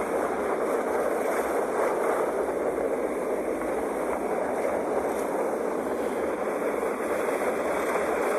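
Sea waves washing on the shore as a steady rush of water noise, with no single wave standing out.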